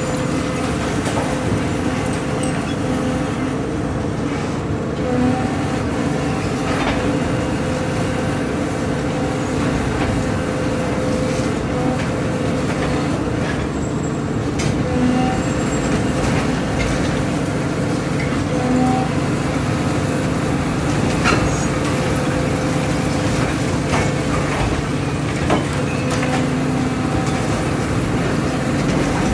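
Excavator's diesel engine running steadily under load, with scattered sharp knocks as it breaks up the house.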